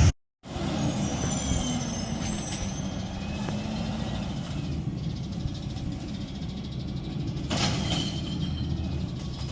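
Refuse truck's engine running steadily, with a short burst of air hiss about three quarters of the way through.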